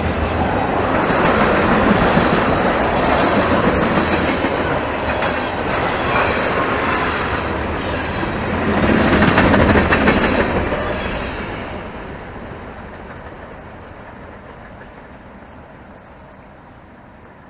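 Norfolk Southern freight train's cars rolling past, wheels running on the rails, loud with a swell about nine seconds in, then fading away steadily over the last several seconds as the train moves off.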